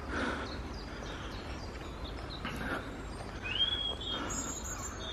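Faint woodland birdsong: scattered thin high calls, a whistled rising note about three and a half seconds in and a high note near the end, over a steady low rumble, with soft footsteps on a muddy grass track.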